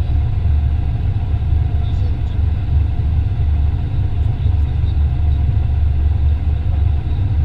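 Heavy farm machinery running steadily: a deep, even rumble with a faint steady whine above it.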